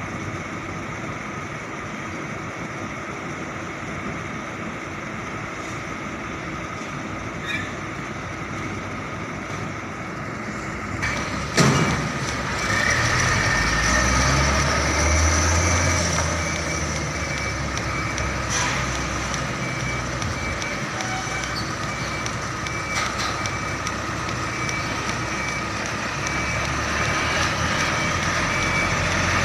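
Container truck's engine running, with a sharp knock about twelve seconds in, after which the engine note climbs and gets louder for a few seconds, then settles back to a steady run.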